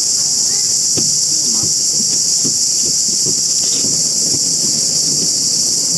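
Loud, steady chorus of insects, a high even drone that does not let up.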